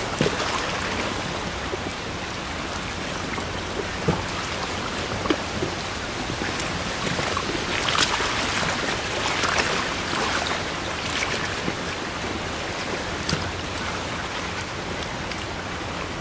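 Forest ambience of steady water noise, with short sharp ticks scattered through it.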